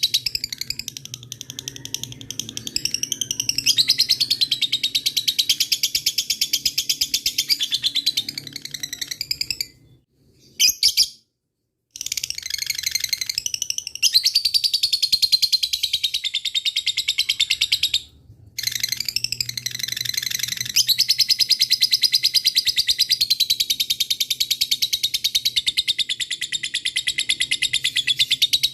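Lovebird giving its long 'ngekek' chatter: a very fast, continuous run of shrill notes with rising and falling sweeps. The run breaks off briefly about ten seconds in and again around eighteen seconds.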